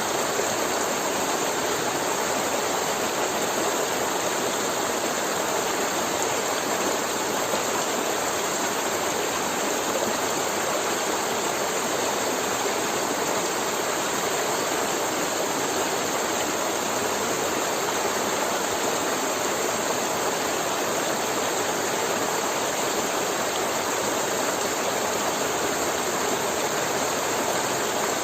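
River water flowing and gurgling over rocks, a steady, unchanging rush.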